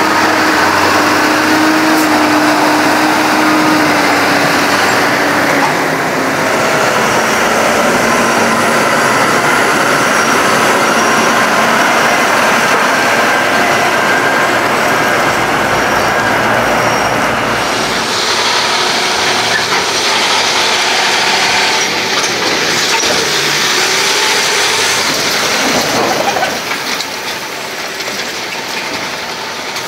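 Heavy farm machinery engines running at work in a corn harvest, a dense steady mechanical noise whose character changes abruptly about 6, 18 and 26 seconds in.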